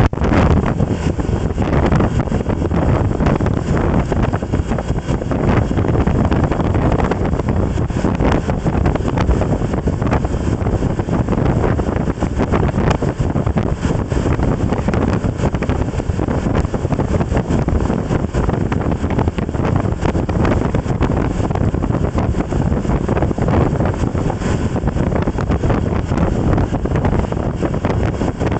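Steady wind rushing over the microphone with the noise of a vehicle under way, unbroken throughout.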